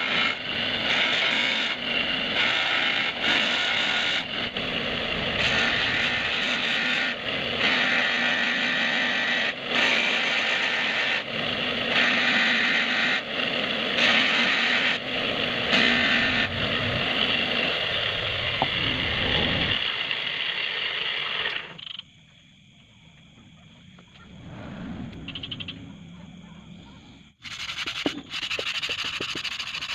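Abrasive rubbing and scraping on a motorcycle wheel hub during polishing, in uneven strokes; it stops about two-thirds of the way through and starts again near the end.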